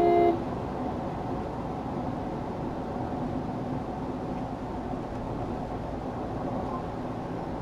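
Steady road and engine noise of a car driving, with a low hum. It opens with a brief, louder cluster of steady tones.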